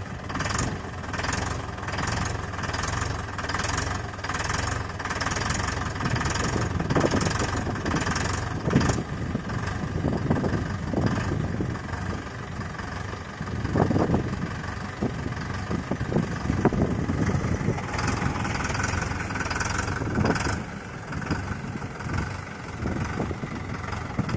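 Mahindra Yuvo Hi-Tech tractor's diesel engine running steadily, with a few short louder moments.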